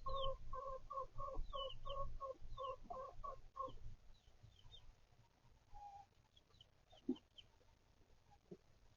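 A chicken clucking in a steady series of short, even notes, about three a second, that stops a little under four seconds in. Faint high peeps carry on after it, with a couple of soft lower calls.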